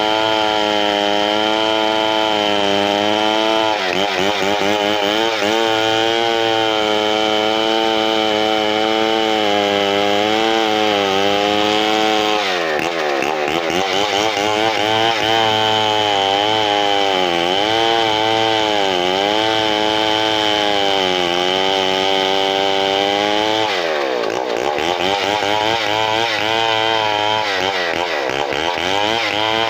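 Large two-stroke chainsaw running at high revs through a big hardwood log, its pitch wavering as the chain bites. The engine note sags deeply under load and recovers three times: once near the middle and twice towards the end.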